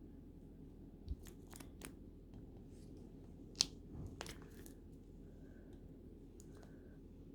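A few small clicks and crinkly rustles of something being handled, with one sharper click about three and a half seconds in, over a faint steady hum.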